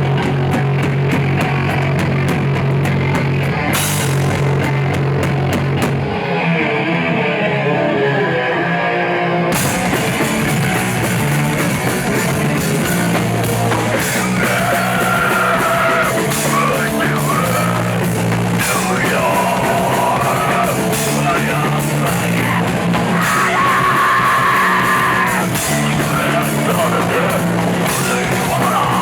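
A live punk rock band playing loud, with distorted guitars, drums and shouted vocals. About six seconds in, the drums and cymbals drop out for a short break. The full band comes back in about three seconds later.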